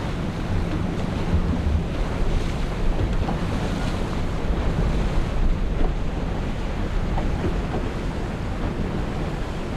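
Wind buffeting the microphone and water rushing past a sport-fishing boat's hull, with a low steady hum underneath.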